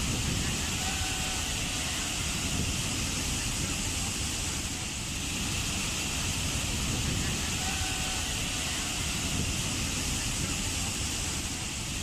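Waterfall: water falling steadily in an even, unbroken roar with a deep rumble underneath.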